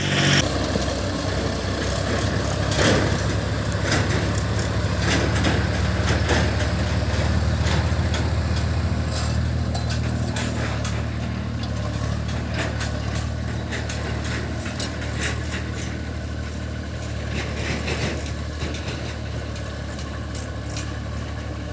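Heavy diesel engine running steadily at low speed, with scattered clicks and knocks over it.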